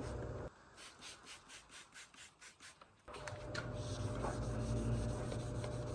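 Wet sandpaper (1,500 grit) rubbed by hand back and forth over an oxidized plastic headlight lens, about four strokes a second, to cut away the yellowed surface. A steady low hum underneath drops out for a couple of seconds in the middle, leaving only the sanding strokes.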